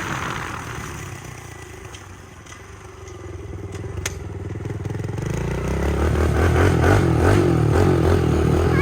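Small dirt bike engines running during a race, fading over the first few seconds and then growing steadily louder as the bikes come back near.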